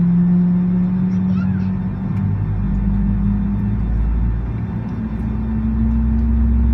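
Jet airliner engines running on the ground, heard from inside the cabin. A steady hum edges up in pitch in small steps, and a low rumble swells from about halfway through.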